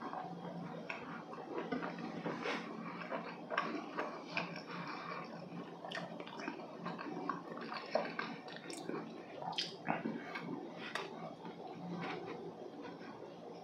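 Close-miked chewing of Korean walnut cakes (hodu gwaja), which are dense and dry in the mouth: moist mouth sounds with many small, irregular clicks.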